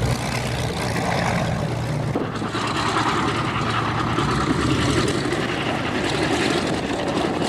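Propeller aircraft engine drone, its low hum fading over the first couple of seconds and giving way to a steady, noisy rumble.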